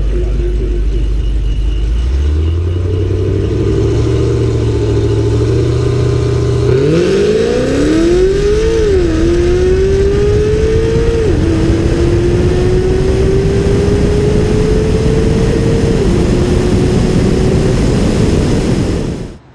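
A drag race launch. At first a low steady drone, stepping up once about two seconds in while the cars stage. Then, about seven seconds in, an engine note climbs steeply as a car accelerates hard down the strip, falling back sharply at three gear shifts before easing off near the end.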